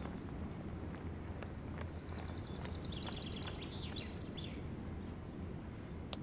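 A small songbird singing two rapid trills, a high one and then a slightly lower one ending in a few quick chirps, over a steady low background hum.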